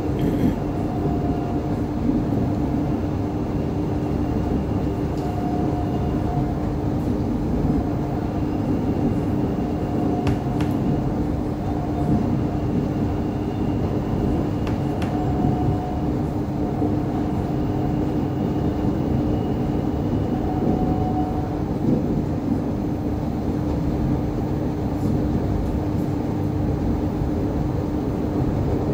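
Cabin noise on board an Irish Rail 8520 class DART electric train under way: steady running noise from the wheels and running gear, with a constant hum and a higher tone that comes and goes every few seconds.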